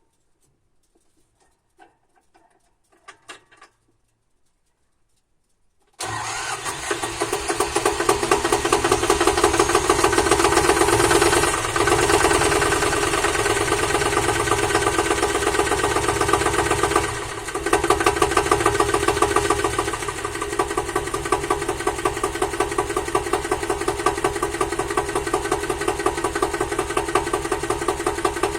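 The air-cooled two-cylinder diesel of an RS-09 tool-carrier tractor on a cold start in frost. After a few faint clicks it fires suddenly about six seconds in, then runs on steadily with a rapid even beat, dipping briefly twice.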